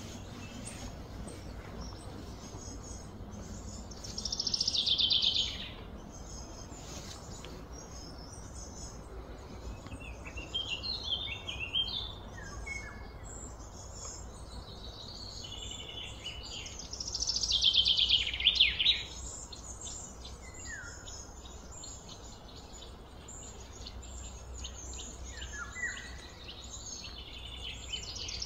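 A wild songbird singing in phrases: two loud, quickly falling high-pitched songs about a dozen seconds apart, with softer chirps between, over a steady low hum.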